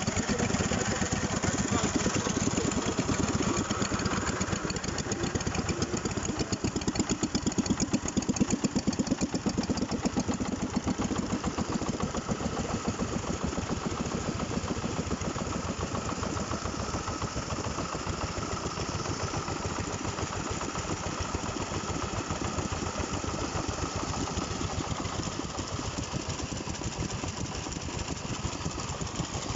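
Vintage Bernard engine running steadily, its firing strokes coming in an even, rapid beat, a little louder in the first ten seconds or so.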